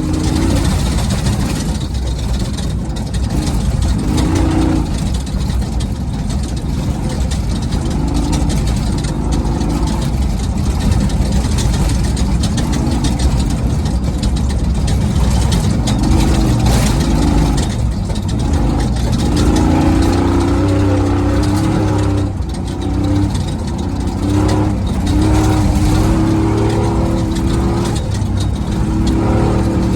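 Race truck engine running hard off-road, heard from inside the cab, its note rising and falling as the throttle changes, over a steady low rumble and a hiss of wind and terrain noise.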